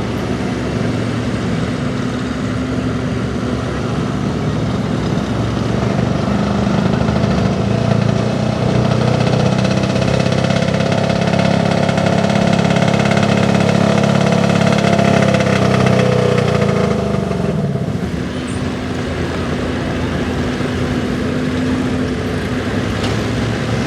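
Gas-engined 4x4 pickup truck running at high revs under load while pulling a sled, growing louder for about ten seconds, then dropping away sharply about seventeen seconds in to a lower, steadier engine note.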